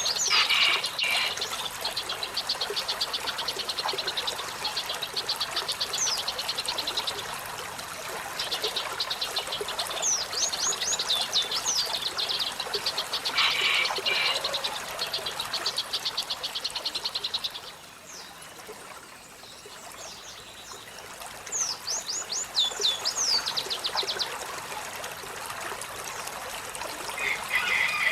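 Olive-backed sunbird singing: long runs of rapid, high trills mixed with sharp downward-sweeping notes, pausing briefly about two-thirds of the way through, over steady running water.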